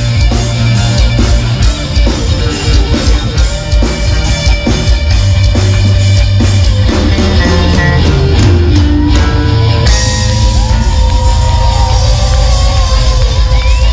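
Live rock band playing loud: drum kit, bass and electric guitar. In the second half a lead guitar line bends up and down in pitch.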